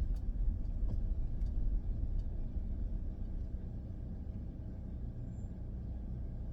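Low, steady rumble of a vehicle driving slowly, heard from inside it. The rumble is rougher in the first few seconds and grows a little quieter and steadier after about three seconds.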